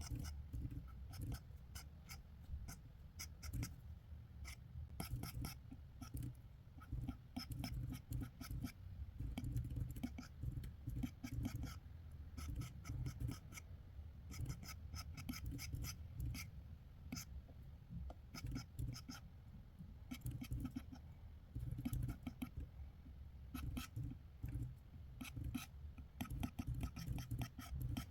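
Drawing strokes on paper: a drawing tool scratching in quick, irregular strokes as the artist sketches. A low rumble runs underneath.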